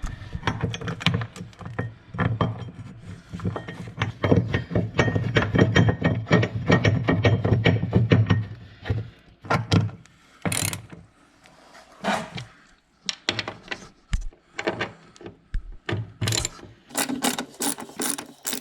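Ratchet clicking rapidly as the skid steer cover's screws are driven in, for about the first nine seconds, followed by scattered sharp clicks and knocks of tool and panel handling.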